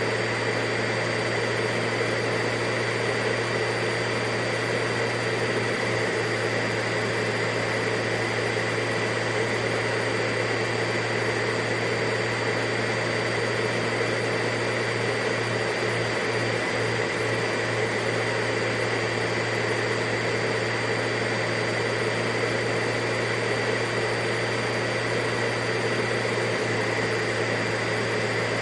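Vacuum cleaner running steadily: a constant motor drone and airflow rush with a high whine, unchanging in pitch and level.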